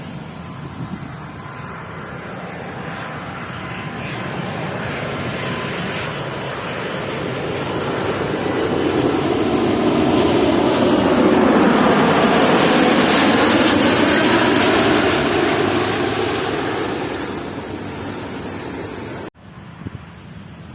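Jet airliner passing low overhead on its landing approach: the engine noise builds slowly, peaks, then starts to fade, and cuts off suddenly near the end.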